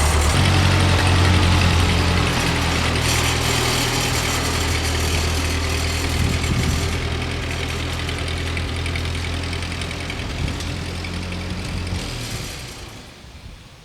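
Old Ford N-series tractor's four-cylinder engine running steadily, then dying away near the end.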